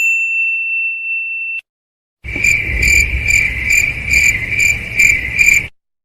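A high, steady ringing tone that cuts off abruptly after about a second and a half. Then, after a short gap, crickets chirp in an even pulsing rhythm, about two chirps a second, over a low outdoor hiss: the stock "crickets" sound effect used for an awkward silence.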